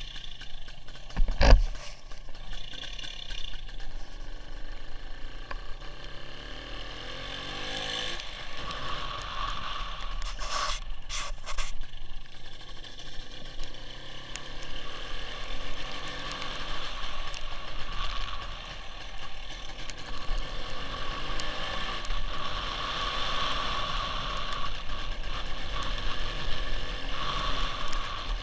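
Onboard sound of a WSK 175 two-stroke motorcycle being ridden in the rain: a steady rush of wind and wet road noise with scraping and rattling over the engine, which rises and falls in pitch a few seconds in. A single sharp knock about a second and a half in.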